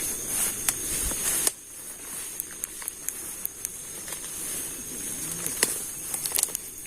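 Night-time insect chorus, crickets trilling steadily and high-pitched, with scattered sharp clicks and rustles as someone steps through brush. A louder rustling stops abruptly about a second and a half in.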